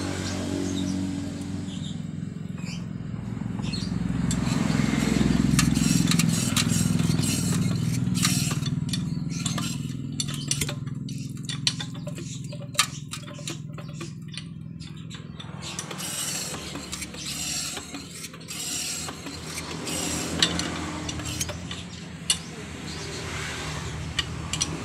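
Yamaha F1ZR two-stroke engine running with a metallic rattling and clinking over it, the 'ngorok' (snoring) noise that marks the engine as having a fault. The engine revs up a few seconds in, then settles back. Sharp clinks stand out here and there.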